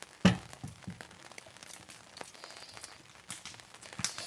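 A sharp crunch as a bite is taken through a crispy, partly scorched Dutch-oven pizza crust, followed by faint chewing and small clicks, with a smaller crunch near the end.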